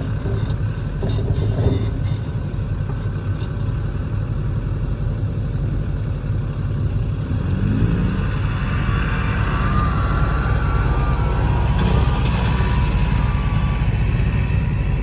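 A vehicle engine running steadily with a low rumble. A wavering, higher squeal joins it over the second half.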